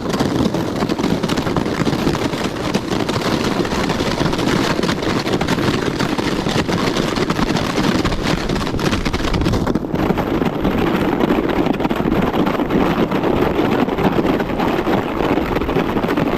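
Steady, loud rushing noise of wind buffeting the microphone, with no engine tone in it; its texture shifts about ten seconds in.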